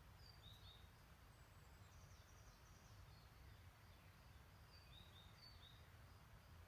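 Faint birdsong: a few short high chirps, a brief run of quick repeated notes about two seconds in, and more chirps near the end. Behind it is a faint steady hiss with a low rumble.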